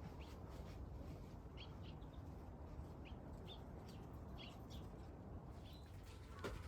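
Small birds chirping faintly: about a dozen short, high chirps scattered through, over a low background hum.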